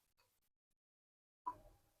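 Near silence, then a single short tap about one and a half seconds in.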